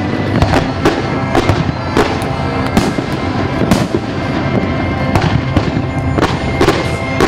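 Aerial fireworks display: a run of bangs and crackles from bursting shells, roughly one every half second to a second, over background music.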